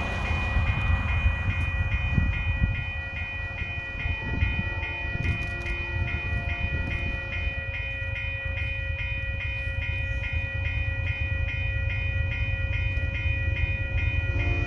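Freight train hauled by GE diesel-electric locomotives rumbling past, a heavy steady low rumble, with a high ringing tone that pulses at an even rapid rate above it.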